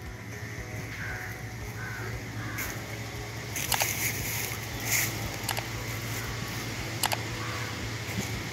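Crows cawing several times, loudest about four and five seconds in, over a steady low hum.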